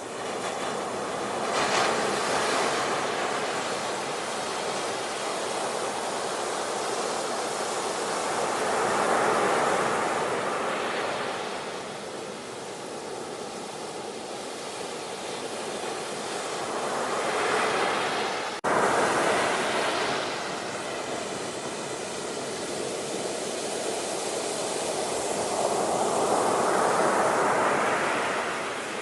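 Ocean surf: waves washing in and drawing back, the rush swelling and fading every several seconds, with one abrupt break about two-thirds through.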